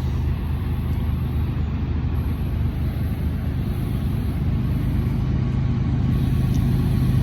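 Union Pacific diesel locomotives at the head of an eastbound stack intermodal train, a steady low engine drone that grows gradually louder as they approach.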